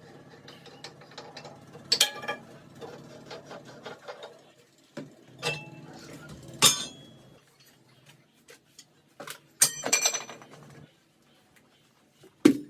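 Scattered metallic clinks and knocks of tools being handled, about half a dozen spread irregularly, over a faint low hum that dies away about halfway through.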